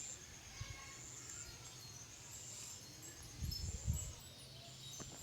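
Outdoor rural ambience: repeated short high-pitched chirps, with low rumbling gusts of wind on the microphone about three and a half seconds in.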